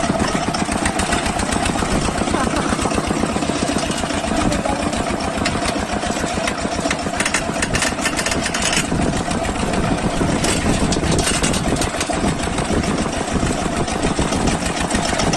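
Engine of a village-built self-loading truck running steadily with a fast, even firing beat, with a few short knocks about halfway through.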